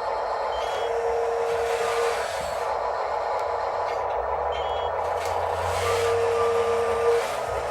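Radio-controlled construction machines (excavators, dump trucks and a loader) running with a steady small-motor whine. A held tone comes in twice, for about a second each time.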